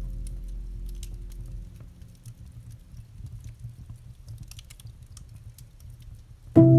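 Campfire crackling with small scattered pops, under the slow healing piano music, whose held low notes die away in the first two seconds. Near the end a loud new chord is struck and rings on.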